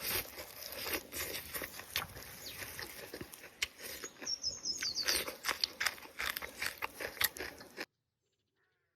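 Close-up chewing and lip-smacking of someone eating stewed cow trotters, with a bird chirping briefly about four seconds in. The sound cuts off abruptly near the end.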